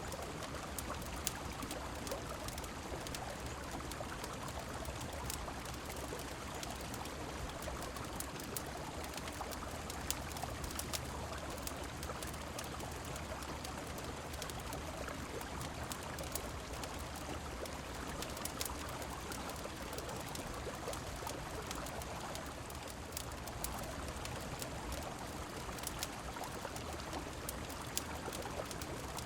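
Steady flowing river water and rain, with scattered sharp pops and crackles of a wood fire.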